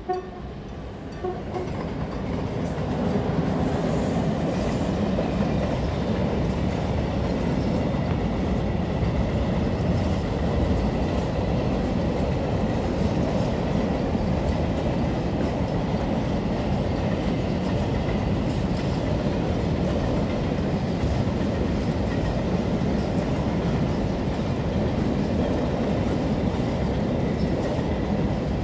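Freight train of covered goods wagons passing close by: the steady noise of wagons and wheels running over the rails, growing louder over the first few seconds as the train arrives, then holding loud and even.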